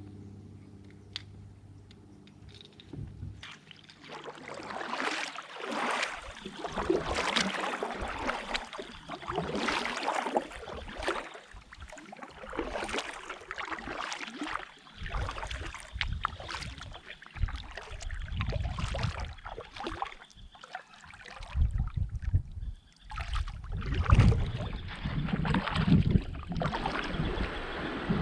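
Kayak paddle strokes splashing and swishing through the water in a repeating rhythm, with wind buffeting the microphone in gusts from about halfway.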